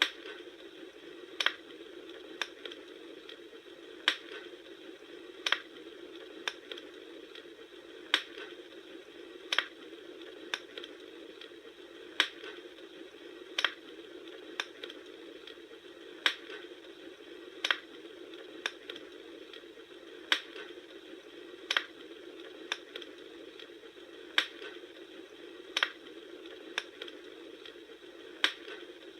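Bonfire crackling: a steady hiss of burning wood with sharp pops about once every second or so, falling into a repeating pattern.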